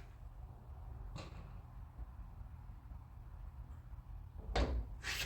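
Car door and its latch being worked by hand: a light click about a second in, then a louder clunk near the end.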